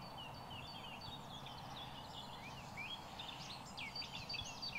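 Several small songbirds singing and chirping in quick, high notes over a steady background hiss, the song busier near the end.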